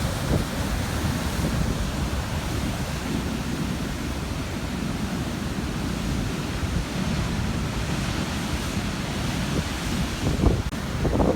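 Large Atlantic waves breaking and churning on a rocky shore at high tide: a steady heavy rush of surf, with wind buffeting the microphone. There are a few sharper thumps near the end.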